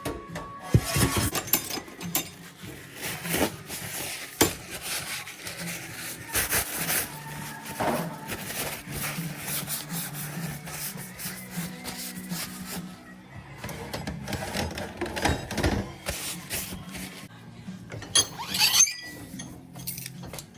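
Background music over repeated scraping, rubbing and clicking of hand work on motorcycle parts with tools.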